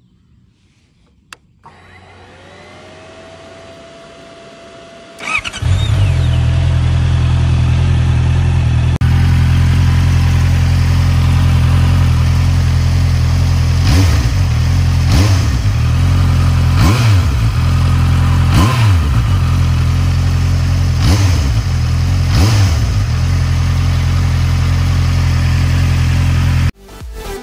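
Honda CBR650R's inline-four engine: a click and a faint rising whine as the ignition is switched on, then it starts about five seconds in and idles steadily, blipped on the throttle about six times in quick short revs.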